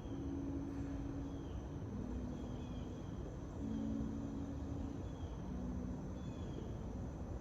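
Forest ambience: short bird chirps repeating about once a second over a steady high insect drone, with a low hum that shifts pitch every second or so beneath a steady rushing noise.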